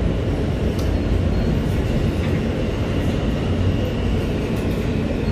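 Rumble of a moving R160A New York City subway car, heard from inside the car, with a faint steady high whine and a few light clicks over it.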